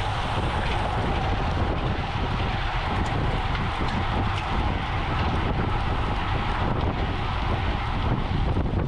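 Steady wind noise rushing over the microphone of a camera moving at racing speed on a bicycle, with a constant low rumble and no distinct events.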